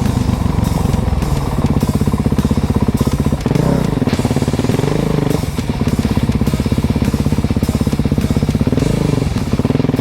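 Kawasaki KX450 dirt bike's single-cylinder four-stroke engine running under way, its note pulsing fast. The pitch rises and falls with the throttle about four seconds in and again near the end.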